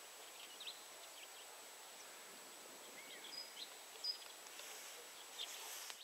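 Faint outdoor ambience with a few short, high bird chirps scattered through it, the clearest around three and four seconds in, over a thin steady high whine.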